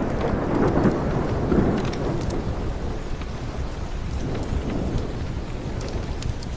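Steady rain with a low thunder rumble that swells over the first couple of seconds and then fades, over scattered sharp ticks.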